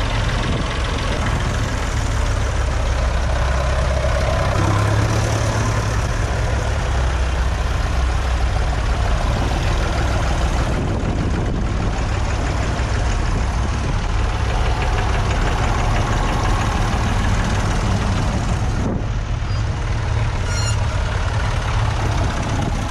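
Vintage tractor engine running steadily at low revs.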